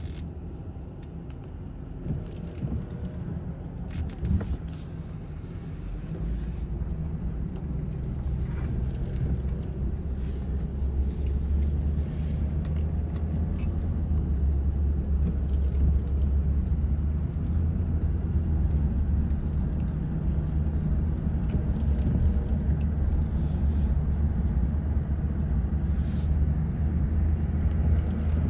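A car driving: a steady low rumble of engine and road noise that builds over the first several seconds, then holds.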